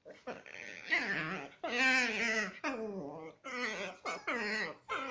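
Chihuahua-cross dogs vocalizing during play, a string of about seven short pitched calls, each bending up and down in pitch: the funny noises these dogs make when playing together.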